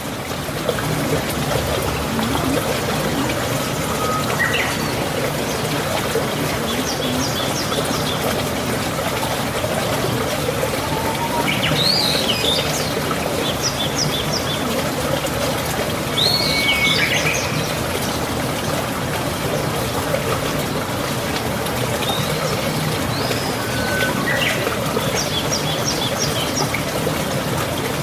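Birds calling: short whistled notes that slide in pitch and quick runs of high chirps, recurring every few seconds over a steady rushing background noise.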